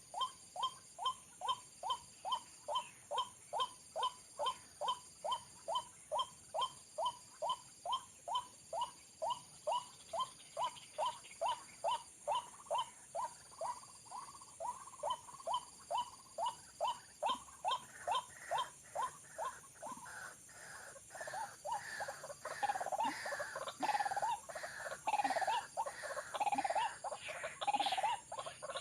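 White-breasted waterhen calling: a steady run of short falling notes, about two or three a second. About two-thirds of the way through it breaks into a louder, busier, more varied string of calls.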